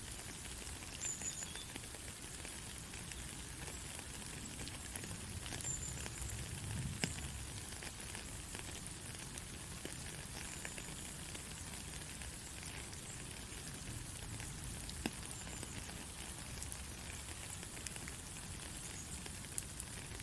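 Steady rain, a hiss weighted to the high end, with scattered sharp drop ticks and a faint low rumble underneath.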